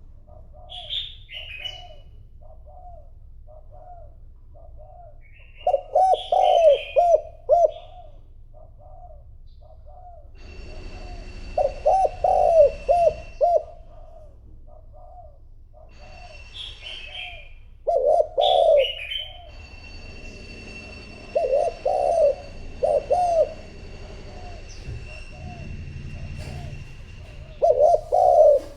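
Spotted dove cooing: clusters of several loud coos recur every few seconds, with soft single coos spaced between them. Higher-pitched bird chirps come in at times alongside the cooing.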